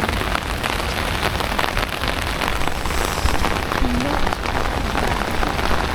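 Heavy rain falling steadily, a dense hiss of rain with many individual drops ticking close to the microphone.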